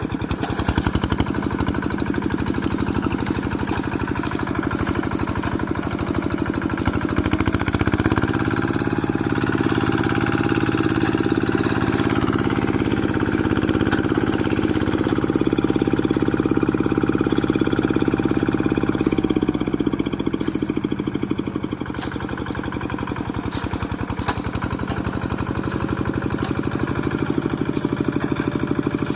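Quick G1000 hand tractor's engine running under load through brush. It rises in pitch about a quarter of the way in, holds there, then drops back to a lower, slower beat about two-thirds of the way through.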